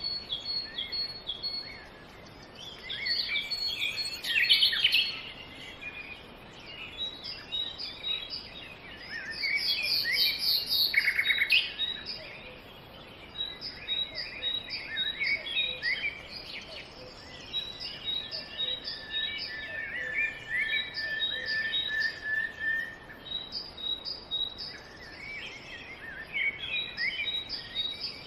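Several small birds chirping and calling in quick, overlapping short notes, with a run of repeated high pips and, past the middle, a held steady note for a few seconds.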